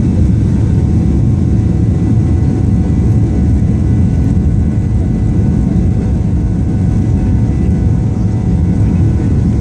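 Boeing 737 jet airliner engines and airflow heard from inside the passenger cabin: a loud, steady low rumble that holds even throughout.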